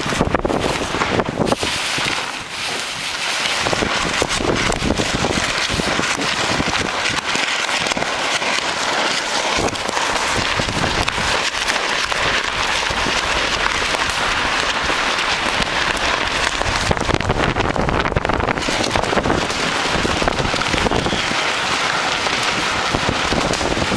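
Strong, gusty wind ahead of a thunderstorm, buffeting the microphone, with rapid continuous crackling and flapping of loose Typar house wrap.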